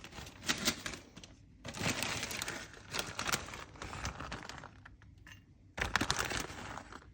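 Kitchen handling sounds: a spoon scraping and clinking against a bowl in a few short bouts, with sharp clicks.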